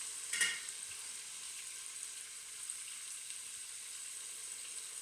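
Chopped onion sizzling in olive oil in a cast iron pot, a steady frying hiss. A single short clatter about half a second in.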